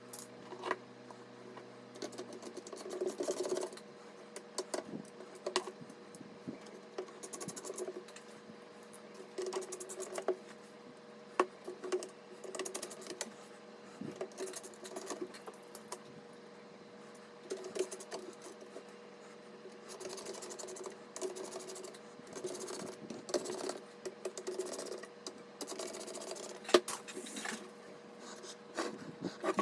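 Hands handling computer parts during a PC build: irregular small clicks, taps and short scrapes, over a faint steady hum.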